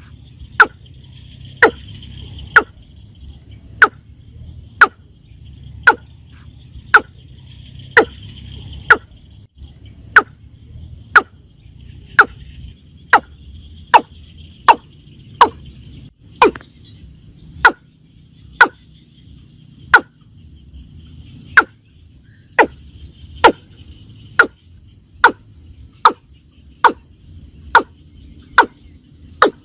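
Watercock calls: short, sharp, loud notes repeated about once a second, each dropping quickly in pitch, used as a lure for trapping. A faint high hiss runs underneath.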